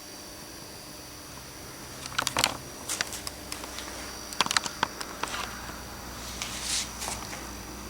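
Scattered light clicks and taps from a small balsa-wood model bridge being handled, with a brief rustle near the end, over a steady background hum.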